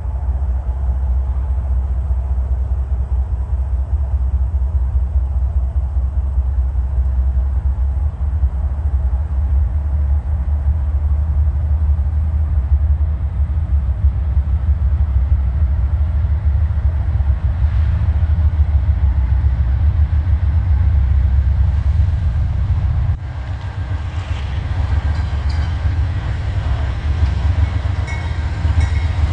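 Approaching Norfolk Southern train with diesel locomotives, heard as a steady low rumble. Wheel and rail noise builds over the last few seconds as the locomotives draw near.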